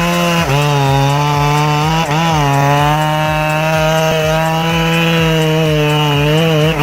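Chainsaw engine running at full throttle in a cut, its pitch dipping briefly as the chain bites about half a second in and again around two seconds in, otherwise holding steady.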